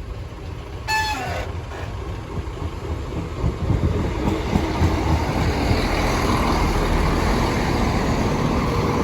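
A train passing over the level crossing: its rumble grows from about three seconds in and stays loud. A short high tone sounds about a second in.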